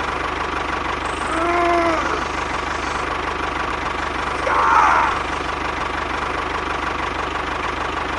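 A small motor running steadily with a fast, even knocking pulse. Two short calls that rise and then fall in pitch sound over it, about a second and a half in and again near the middle.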